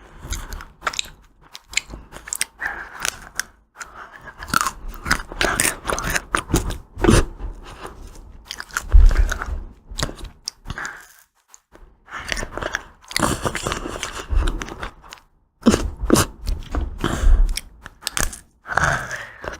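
Close-miked eating of ice cream: crunchy bites and chewing, repeated irregularly, with brief pauses about two-thirds of the way in.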